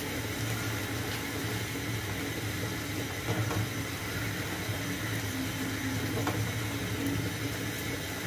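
Onion and tomato masala sizzling in oil in a nonstick frying pan while a silicone spatula stirs it, with a few light taps of the spatula, over a steady low hum. The spices are being fried down in oil.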